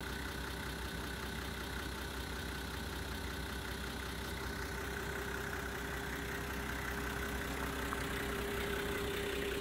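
Nissan Civilian bus's TD42 straight-six diesel engine idling steadily.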